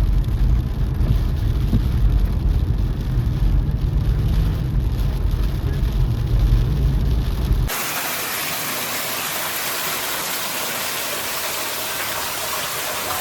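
Heavy low rumble of wind buffeting the microphone. Then, after an abrupt change about eight seconds in, a steady hiss of heavy rain.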